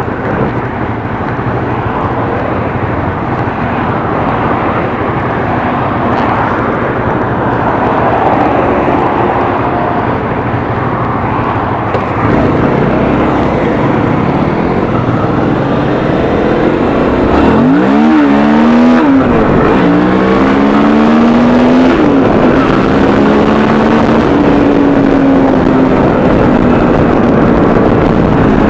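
Suzuki V-Strom 650's V-twin engine under way with heavy wind rush. About two-thirds of the way in the engine note sweeps sharply up and back down, then settles into a steady note that climbs gently as the bike accelerates.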